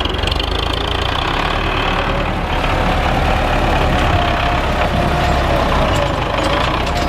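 Tractor engine running steadily, a low even engine sound.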